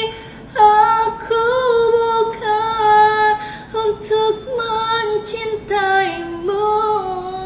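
A woman singing a slow ballad melody in long held notes, in several phrases with small pitch bends.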